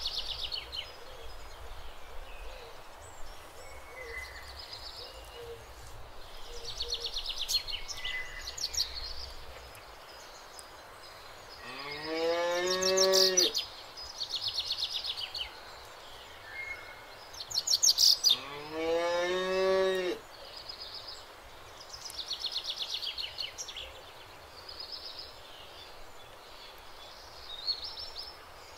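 Cows mooing twice, each moo about two seconds long, rising at the start and then held. Small birds chirp and trill in the background, and a low rumble stops about ten seconds in.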